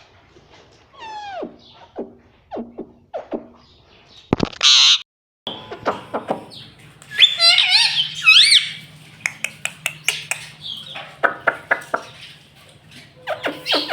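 Indian ringneck parrot calling and chattering: a falling whistle about a second in, a loud harsh screech at about four and a half seconds, then warbling chirps and a run of short clicks.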